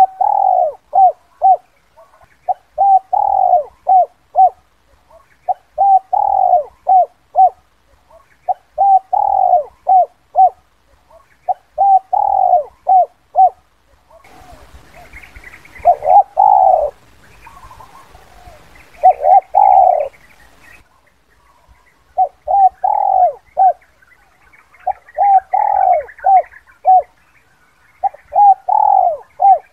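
Spotted dove cooing its 'kuk 2' call, a phrase repeated about every three seconds: one longer coo followed by two or three short clipped notes. Fainter higher chirping and a light hiss come in around the middle.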